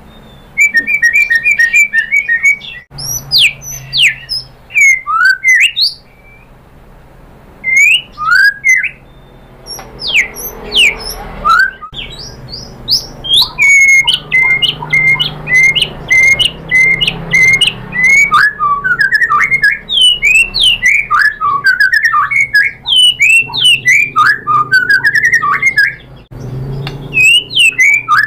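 White-rumped shama singing a loud, varied song of whistles, fast runs of repeated notes and sweeping phrases, broken by a few brief pauses.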